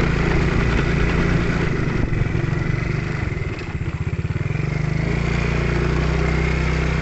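Small motorcycle engine running while riding. It eases off for a moment about halfway, with separate engine beats, then runs steadily again.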